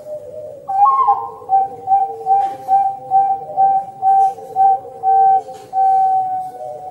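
A whistle-like tone, short repeated notes on a single pitch about three a second, over a lower held tone. It starts with a brief upward slide and ends in two longer notes.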